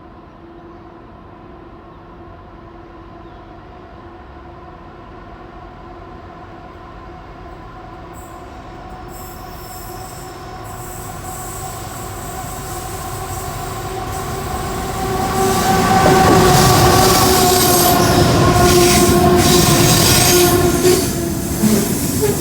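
Three C44aci diesel-electric locomotives heading a loaded coal train approach and pass. Their steady engine note grows gradually louder and peaks about two-thirds of the way in, when loud wheel-on-rail noise and high-pitched wheel squeal take over.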